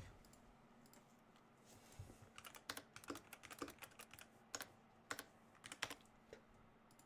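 Typing on a computer keyboard: an irregular run of key clicks starting about two seconds in and stopping about six seconds in.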